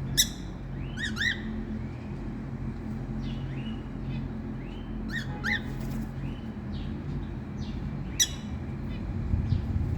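Small birds chirping with short, arched notes, several in quick pairs, and two sharp, shrill calls, one near the start and one about eight seconds in. A steady low hum runs underneath.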